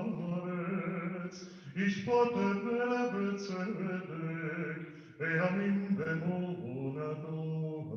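Male cantor singing a slow Hebrew liturgical melody in long, held phrases, with new phrases starting about two and about five seconds in.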